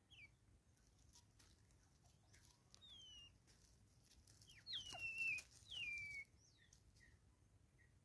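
Near-silent woodland with a few faint, thin whistled bird calls, each sliding down in pitch. There is a short one at the start, one about three seconds in, and two longer, louder ones around five and six seconds in. Faint scattered ticks can be heard between them.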